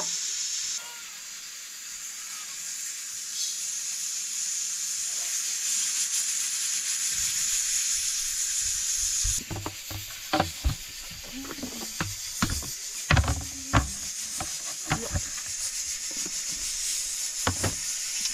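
Potato curry frying in a pan, a steady high sizzle, being stirred. In the second half the stirring utensil clacks and knocks against the pan many times.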